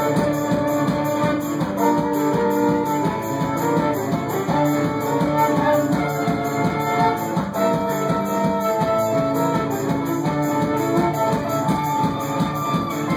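Live folk-rock band music: a guitar strummed in a quick, steady rhythm under held melody notes.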